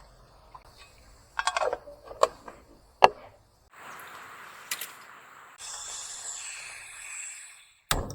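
Camp cooking preparations: a few sharp knocks and clatters of cookware, then about four seconds of hissing noise, brighter in its second half, ending in a sharp click.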